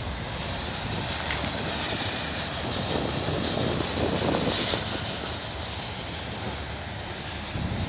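Container flat cars of a freight train rolling past slowly: a steady rumble of wheels on rail, with a few faint clicks and a slight swell about four seconds in.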